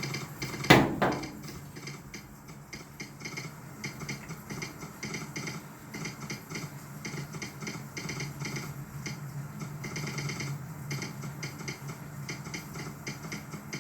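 A sharp knock about a second in, then a telegraph sounder clicking out Morse code in uneven runs of clicks: an incoming telegraph message.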